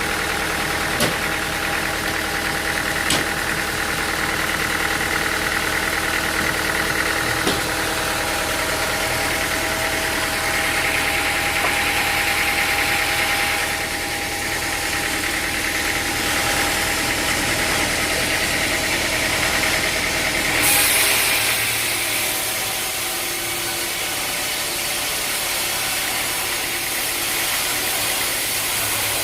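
Sawmill machinery running steadily with a low engine-like rumble and several steady tones. About two-thirds of the way through the rumble drops away and a high hiss takes over.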